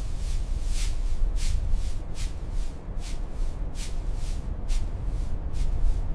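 Footsteps crunching through snow at a steady walking pace, about two or three steps a second, over a low steady wind rumble.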